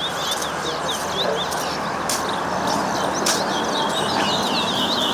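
Songbird singing a fast run of short, repeated chirps, several a second, over a steady background hiss, with a couple of sharp clicks.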